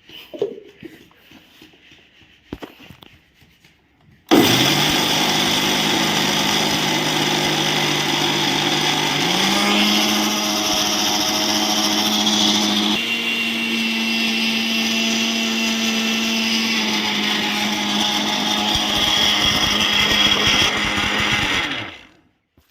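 Electric kitchen mixer grinder switched on about four seconds in, its motor running loud and steady as it grinds soaked rice into flour. Its hum rises a little in pitch twice partway through, then it is switched off just before the end.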